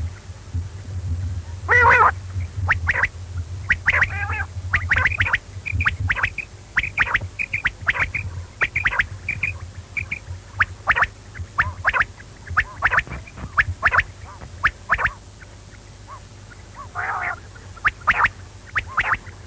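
Quail calling: quick runs of short, sharp notes repeated over and over, with a longer, rougher call about two seconds in and another near the end.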